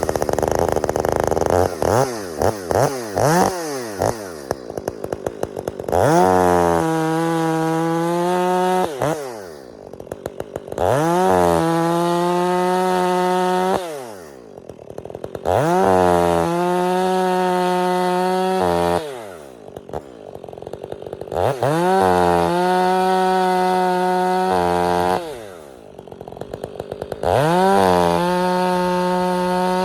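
Stihl 500i chainsaw bucking a pine log into firewood: a few quick throttle blips at first, then five cuts, each a rev to full throttle held steady for about three seconds before dropping back to idle.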